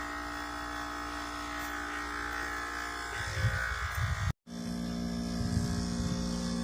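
A steady electric hum made of many even tones. It cuts off sharply about four seconds in and then carries on with a slightly different pitch.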